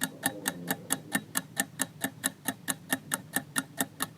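Fast clock-ticking countdown sound effect: even, sharp ticks at about five a second, marking the time to answer a quiz question.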